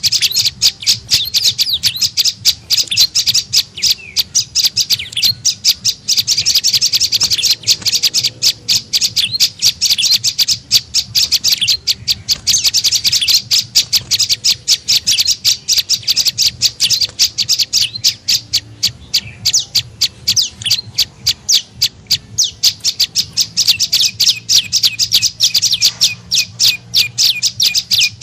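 Prenjak lumut calling: a fast, continuous run of sharp, high chirps. This is a lure call, used to draw in wild birds of the same species.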